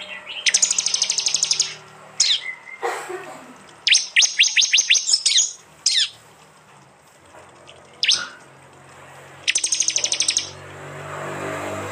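Prinias (prenjak) calling: three fast, dry trilled bursts of about a second each, with single sharp sweeping notes between them.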